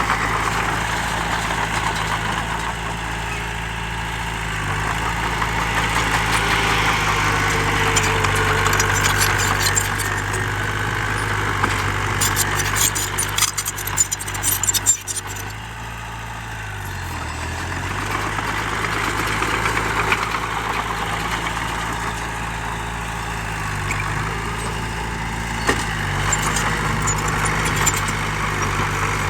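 Heavy diesel engine of earthmoving machinery running steadily, its pitch dipping briefly and recovering about two thirds of the way through. A burst of rattling and clanking comes near the middle.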